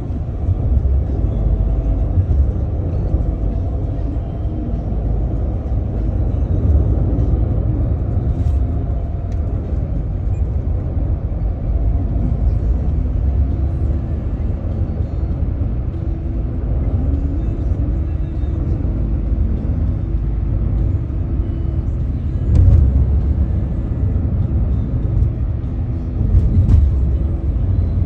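Steady low rumble of a moving car's road and engine noise, with two short louder jolts in the last several seconds.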